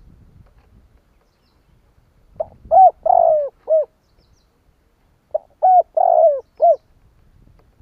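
Spotted dove cooing: two phrases, each of about four low notes, a couple of seconds apart. This is the male's territorial call, played as a lure to provoke wild doves into responding.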